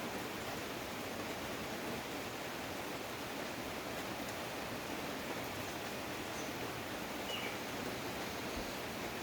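Steady rain falling, an even hiss. About seven seconds in comes a faint short note from a common nightingale.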